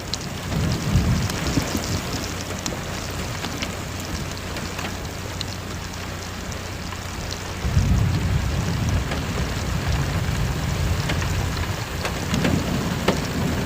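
Heavy rain pouring steadily, with low rumbles of thunder about a second in and again from about eight seconds.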